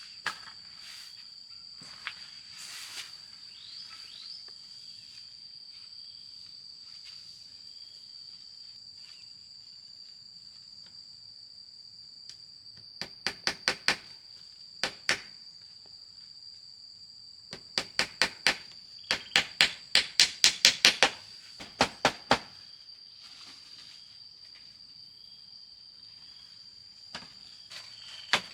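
Hammer blows in quick runs: about five strikes near the middle, then a longer run of a dozen or so a few seconds later. A steady high-pitched insect drone continues underneath.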